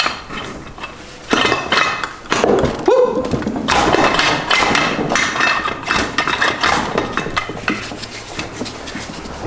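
Metal transmission parts and hand tools knocking and clinking together in quick, irregular strikes as a Subaru six-speed gearbox is taken apart, thickening after about a second.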